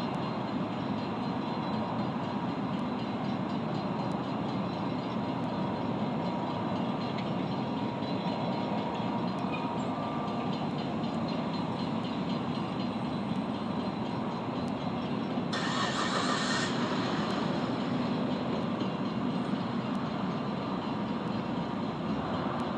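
Loaded freight cars of a long mixed freight train rolling past with a steady rumble of wheels on rail and faint clicks. About two-thirds of the way through, a brief, higher hiss lasts about a second.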